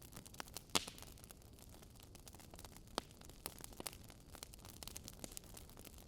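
Log fire crackling, with irregular small pops and snaps and one louder pop a little under a second in.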